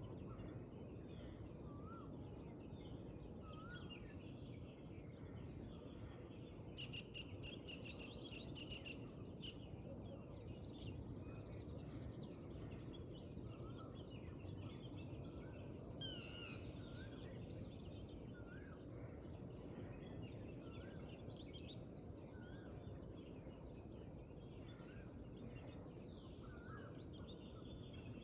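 Morning forest ambience: several birds singing, with short chirps every second or two, a trill about a quarter of the way in and a quick sweeping call just past the middle. Under them run a steady high whine and a low rumbling background.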